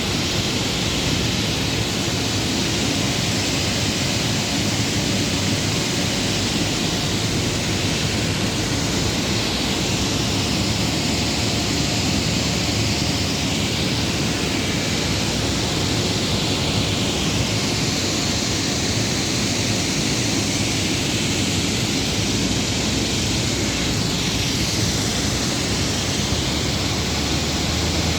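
Steady, loud rushing noise of large air fans at a grain dryer and silo installation, even throughout with no breaks.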